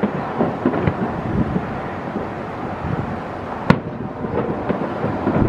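Fireworks heard from a distance: one sharp bang a little under four seconds in, over a continual rumble of lower booms.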